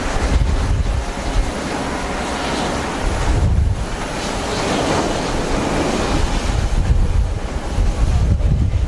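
Strong typhoon wind buffeting the microphone in uneven gusts, over a steady rushing noise.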